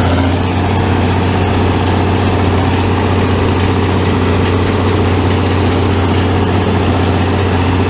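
Farmall 806 tractor engine running steadily while pulling a working square baler, with a thin steady high whine over the low engine drone.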